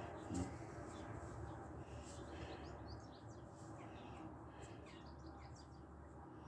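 Faint birdsong: many short chirps over a low steady background hum, with a soft knock about half a second in.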